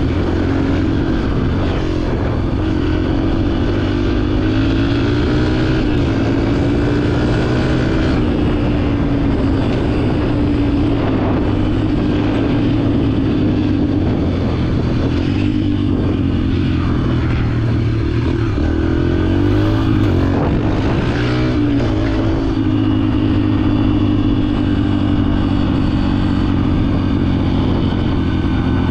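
Dirt bike engine running through a trail ride, its pitch rising and falling repeatedly as the throttle is opened and eased off.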